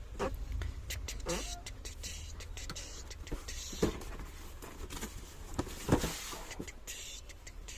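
Packaging of a toy jeep being opened and handled: a run of irregular clicks and knocks with short scraping squeaks, the sharpest about four and six seconds in.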